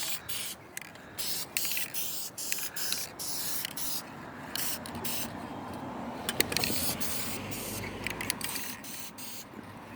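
Aerosol can of clear high-temperature spray paint hissing in quick short bursts with brief breaks, then spraying more steadily from about halfway through.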